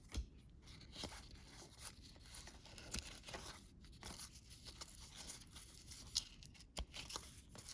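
Faint rustling, scraping and light clicks of cardboard trading cards being handled and sorted, with a crinkle of pack wrapper now and then.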